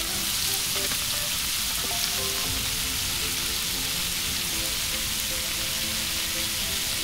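Rib-eye steak searing in butter on a hot plate set to very high: a steady sizzle, with background music underneath.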